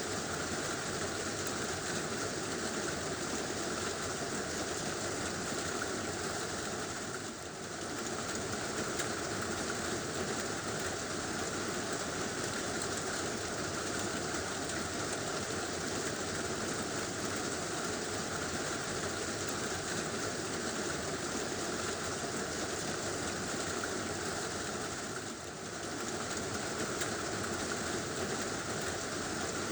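Heavy rain drumming steadily on a tin roof, a dense even patter that dips briefly twice.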